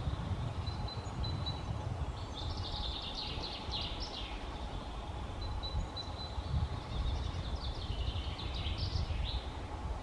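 A small bird sings two quick, twittering phrases of about two seconds each, a few seconds apart, with a few thin high notes in between, over a steady low rumble of outdoor background noise.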